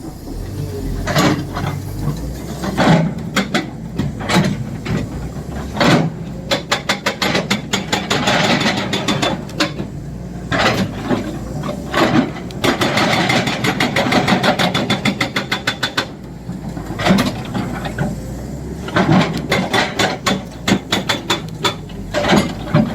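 Excavator-mounted hydraulic breaker hammering rock, its rapid strikes coming in runs of a few seconds with short pauses, over the excavator's engine running.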